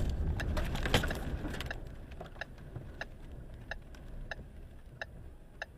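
Strong wind gusts buffeting a car with a low rumble that dies down about two seconds in, leaving a steady ticking about every two-thirds of a second.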